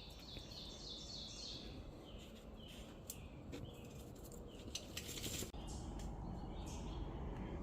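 Birds chirping: a quick run of short, falling chirps in the first couple of seconds, then scattered calls and a few faint clicks. The background noise steps up about five and a half seconds in.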